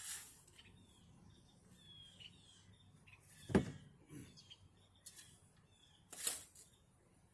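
Shovel digging in dirt: a scrape of the blade at the start and another about six seconds in, and a loud thud about three and a half seconds in. Small birds chirp faintly in between.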